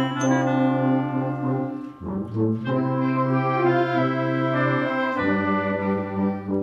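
Brass ensemble playing held chords, with trombones low and trumpets above. There is a brief break and a quick passage about two seconds in, and a new chord sounds about five seconds in.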